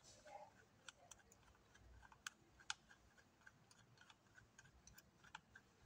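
Faint, irregular small clicks and ticks of a screwdriver turning a mounting screw into a wall power socket, with two sharper clicks a little past two seconds in.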